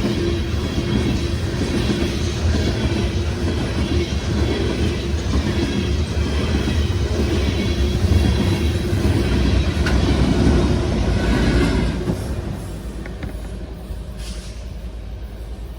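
A loaded freight train rolling past on the rails: a steady rumble of wheels and cars that drops off about twelve seconds in.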